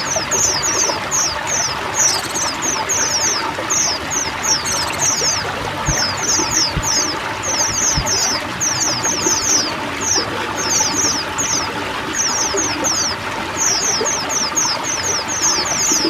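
A flock of white-eyes (pleci) chattering constantly in quick, high, downward-sliding notes, over the steady sound of pouring, trickling water.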